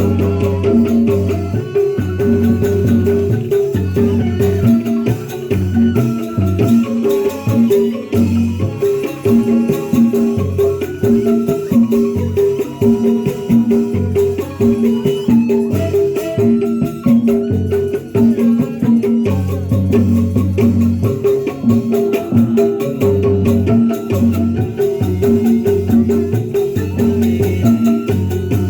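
Gamelan-style ensemble music: mallet-struck keyed percussion playing fast repeating, interlocking patterns over a low pulse, with rattling shaken percussion.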